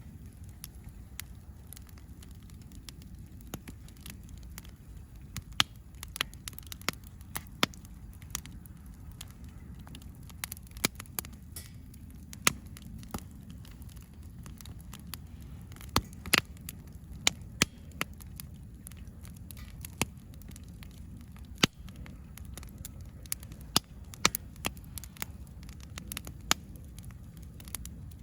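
Wood campfire burning, crackling steadily with scattered sharp pops over a low, steady rumble.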